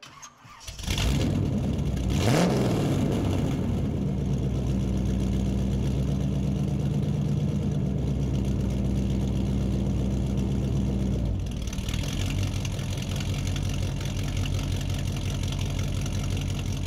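Car engine starting about a second in, revving briefly, then running steadily; about eleven seconds in its note changes and it carries on running.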